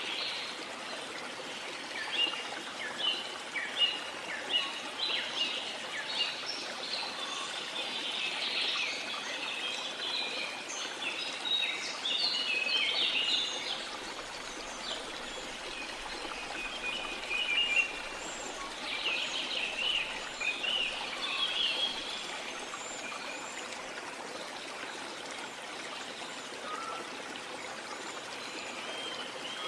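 Steady rush of a waterfall under many small birds chirping and calling. The calls come thick and fast through the first half, thin out for a few seconds, bunch up again, then become sparse.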